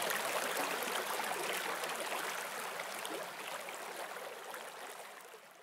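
Forest stream flowing, a steady rush and babble of water that fades out toward the end.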